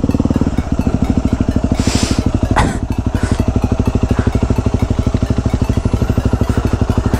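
Motorcycle engine running at low revs, a steady fast pulsing throb, with a brief hiss about two seconds in.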